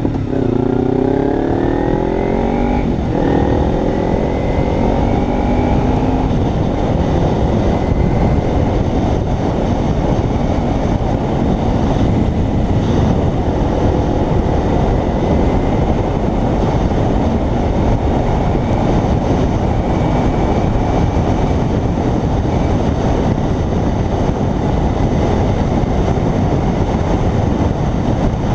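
Kawasaki Ninja 300's parallel-twin engine accelerating, its pitch rising, breaking at a gear change about three seconds in and rising again. It then settles into a steady cruise, mostly covered by heavy wind noise on the microphone.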